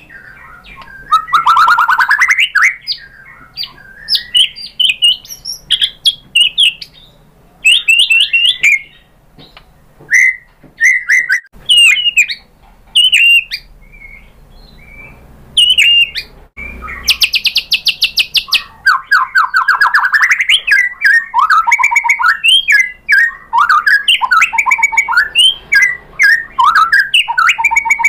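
White-rumped shama singing: loud, varied whistled phrases and quick trills broken by short pauses, with a dense rapid rattling run a little past halfway, then a fast jumble of notes.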